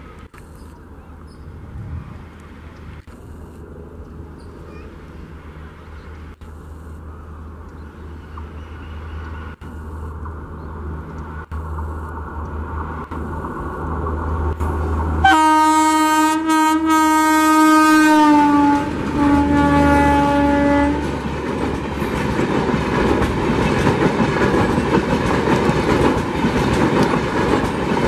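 A WAP4 electric locomotive approaching with a low rumble that grows steadily louder. About halfway through it sounds its horn: one long blast that sags in pitch at the end, then a shorter blast. After that the passenger coaches roll past close by with steady wheel-on-rail clatter.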